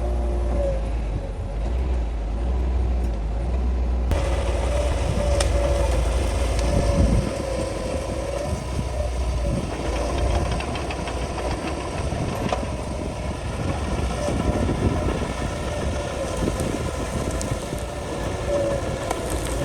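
Crawler bulldozer's diesel engine running under load, a low drone with a steady wavering whine, with irregular clanks and cracks as the machine pushes through brush.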